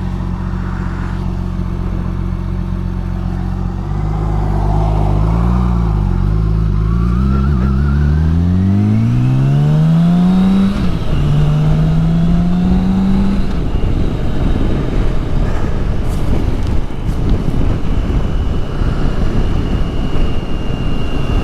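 Motorcycle engine idling steadily, then pulling away and accelerating, its pitch rising through the gears with a shift down in pitch near the middle. After that the engine note fades into a steady rush of wind and road noise at speed.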